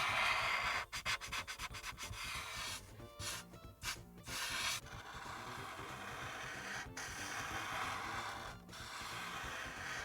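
Felt-tip marker rubbing back and forth across paper as an area is coloured in: quick short strokes at first, a brief patchy pause a few seconds in, then steadier continuous scrubbing.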